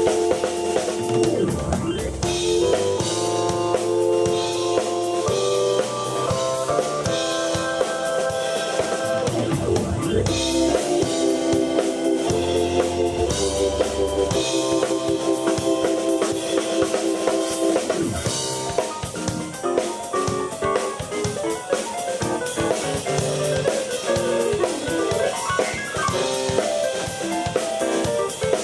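Live keyboard and drum kit duo playing a rock jam: keyboard chords that change every second or so over a steady, busy drum beat.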